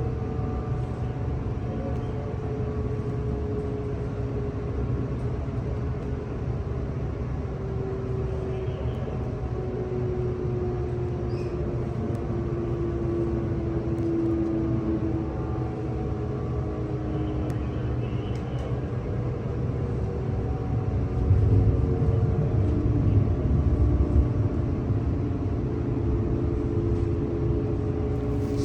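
Steady low rumble of a light-rail train heard from on board, with a motor whine of several tones slowly sliding down and then back up in pitch. The low rumble grows louder for a few seconds about three quarters of the way through.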